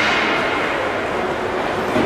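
Steady noise of a game in a large hall, with a sharp crack right at the start and a low thump near the end.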